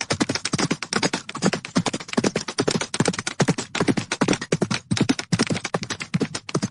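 Horses galloping: a fast, unbroken patter of hoofbeats.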